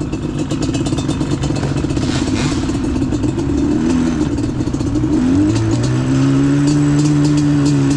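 Off-road vehicle engine running on a trail, its pitch rising and falling with the throttle, then holding a steady, higher note from about halfway through.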